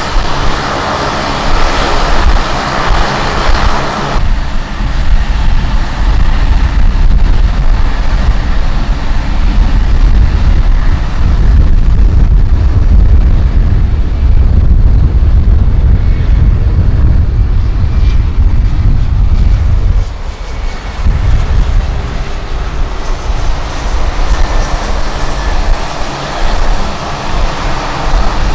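Jet airliner engine noise: a loud, steady low rumble, with a brighter hiss on top for the first four seconds that drops away suddenly.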